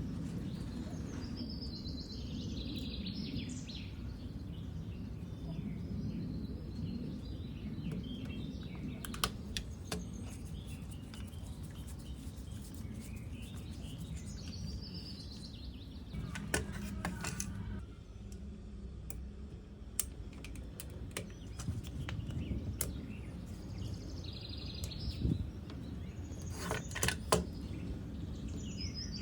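Birds chirping in short calls every several seconds over a steady low rumble, with a few sharp clicks now and then.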